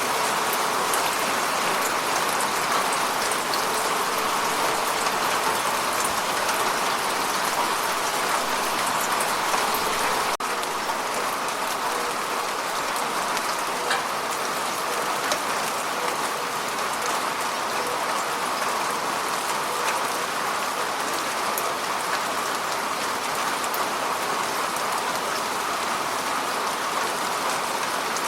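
Heavy rain falling steadily, a dense even hiss of many small drop impacts. The sound dips for an instant about ten seconds in.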